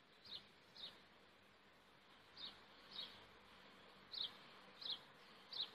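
A small bird chirping faintly: short, high, slightly falling chirps, mostly in pairs about every two seconds.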